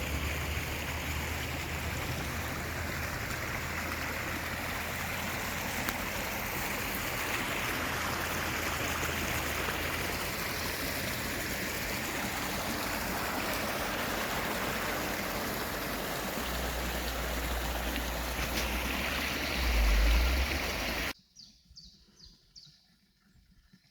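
Rushing water, a loud steady hiss with a deep rumble that swells for a few seconds near the end. It cuts off abruptly, leaving a quiet forest with a few faint bird chirps.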